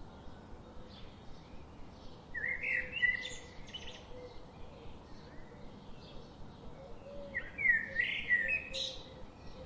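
A songbird singing two short warbling phrases of quick rising and falling notes, about five seconds apart. Fainter chirps from other birds run between them.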